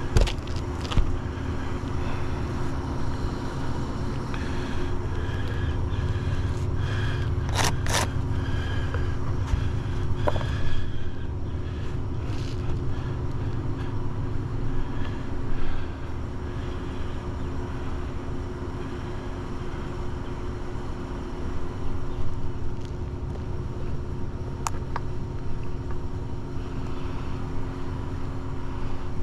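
Steady low rumble and hum, with a few sharp clicks and scrapes as asphalt shingles are pried up by hand, two close together about eight seconds in.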